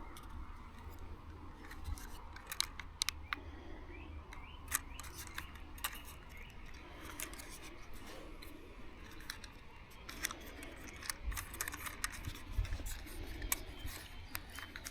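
Irregular sharp clicks and scraping over a steady low rumble.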